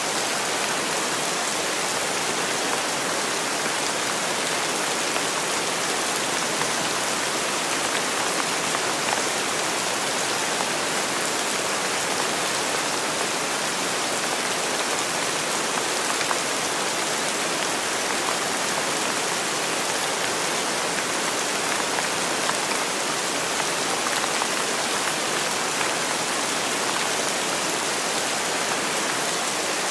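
Steady rain falling, a dense even hiss with fine pattering of drops on a surface.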